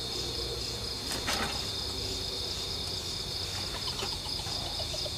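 Steady night chorus of crickets and other insects, a continuous high-pitched trill with a faint low hum beneath.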